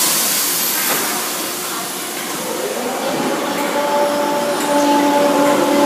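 Merseyrail electric train: a broad hiss, then from about halfway a steady electric whine in several tones that grows louder.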